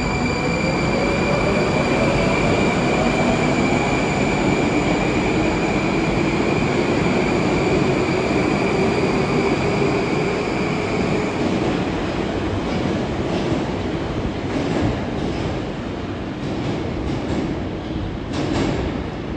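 A Moscow Metro 'Moskva' (81-765) train moving through the station, its traction motors giving a steady high whine and a low hum that rises slowly in pitch as it gathers speed. From about twelve seconds in the whine fades and the wheels click and knock over rail joints, with a louder knock near the end.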